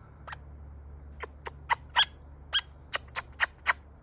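Australian king parrot close by, giving a quick run of about ten short, high squeaky chirps over a couple of seconds.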